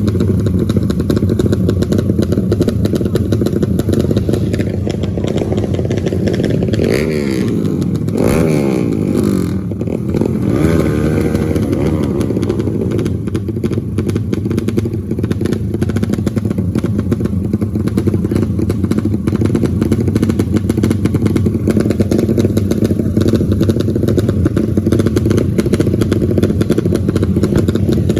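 Motorcycle engine running steadily. Between about a quarter and a third of the way in, the engine pitch sweeps down and back up, as a bike revs or passes.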